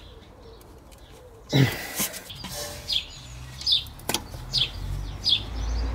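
A small bird chirping over and over, short high falling chirps a little under a second apart from about two and a half seconds in. About a second and a half in comes a sharp knock and rustle, with a lighter click a few seconds later, as hands work at the crusty plastic connector on the rear air-suspension height sensor.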